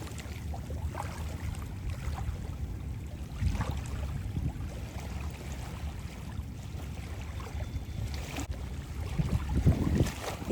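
Wind buffeting the microphone over the sound of sea water at the shore: an uneven low rumble that swells about three seconds in and again near the end.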